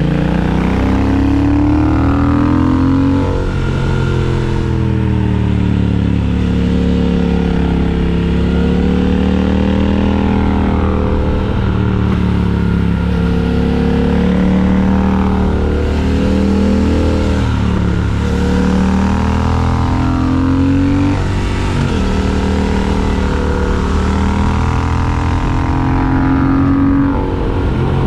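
Triumph Speed Twin 1200's 1200 cc parallel-twin engine and exhaust under way, its pitch rising and falling. There are brief dips about five times where the pitch drops and then climbs again.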